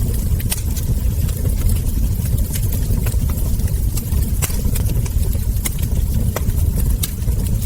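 Wood fire burning in a fireplace: frequent, irregular sharp crackles and pops from the logs over a steady low rumble of the flames.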